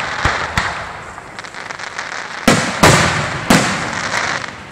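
Aerial fireworks shells bursting overhead: a few lighter bangs at the start, then three loud booms about two and a half to three and a half seconds in, each trailing off in a long echoing rumble.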